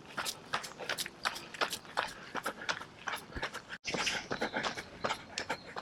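A runner's footsteps landing in a quick, even rhythm, about three strides a second, with a brief break in the sound about four seconds in.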